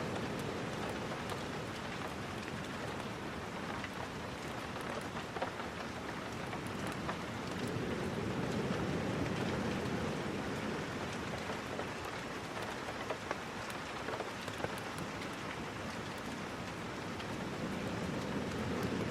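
Steady rain falling, with a low rushing swell that slowly rises and falls and scattered small clicks.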